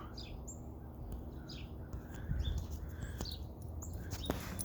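Small birds chirping: short, high calls scattered throughout, over a low rumble, with a sharp click near the end.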